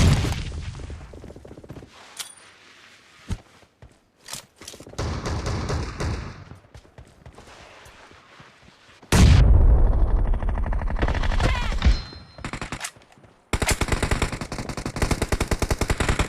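Video game gunfire: a few single shots, then long runs of rapid automatic fire, the loudest about nine seconds in and another steady burst starting about thirteen seconds in.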